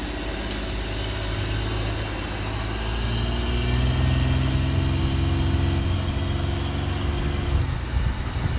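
Car engine pulling away under acceleration. Its pitch and loudness climb over the first few seconds and then hold steady.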